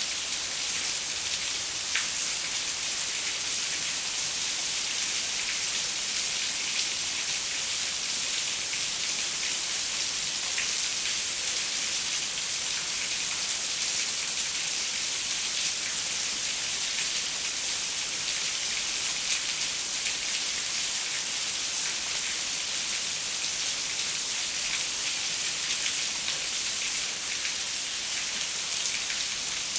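Steady rain falling on a window, an even hiss with scattered small drop ticks.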